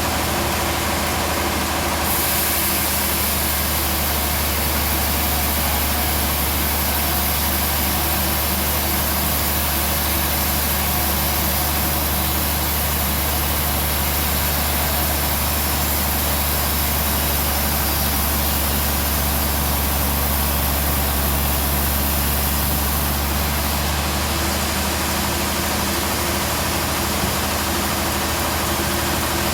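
Band sawmill running steadily while sawing a trembesi log; from about two seconds in, a heavier hum and a bright high hiss come in and fall away about six seconds before the end, as the blade cuts through the log.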